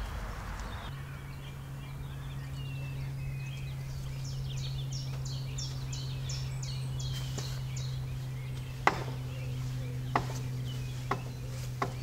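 Songbirds singing outdoors, with short chirps and a run of about ten quick, evenly spaced high notes. A steady low hum runs underneath from about a second in, and a few sharp knocks come near the end.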